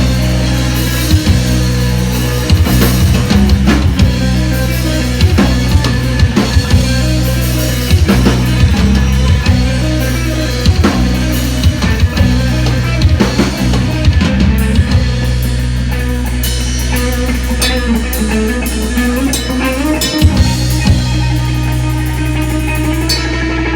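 A live rock band playing loud music with drum kit, bass and guitar, the bass sustained and the drums hitting regularly. Near the end the low bass cuts out.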